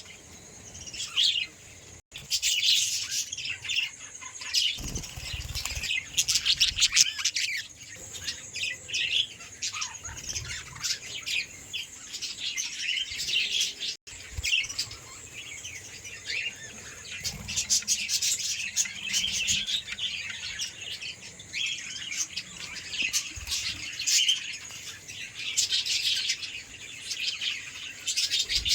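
Lovebirds chirping and chattering in a dense stream of high, rapid chirps, with two brief breaks.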